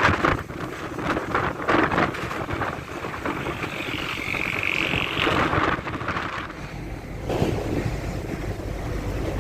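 Strong, gusty wind in a dry storm, buffeting the microphone and rising and falling, with a higher rushing gust about halfway through.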